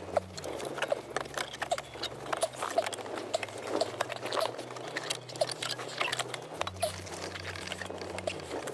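Hands working parts into place behind a car's dashboard: irregular clicking, tapping and rustling as the engine computer and its wiring are refitted.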